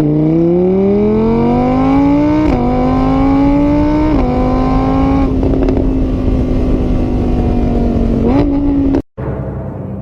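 An engine accelerating hard through the gears: the pitch climbs, drops back at each shift about two and a half and four seconds in, then holds steady at speed before cutting off suddenly near the end.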